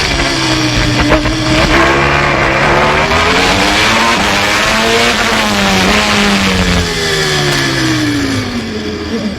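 Onboard sound of a 1993 Formula One car's engine at high revs, its note climbing for the first half, then falling away toward the end as the car slows.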